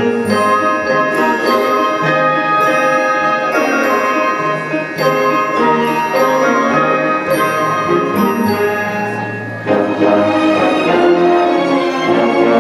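An orchestra playing a Christmas arrangement, with bright, high, struck bell-like notes over the ensemble. About ten seconds in the music thins and dips briefly, then comes back fuller.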